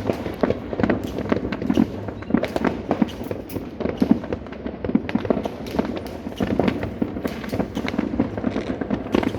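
Many fireworks and firecrackers going off at once: sharp bangs and crackles overlapping without a break.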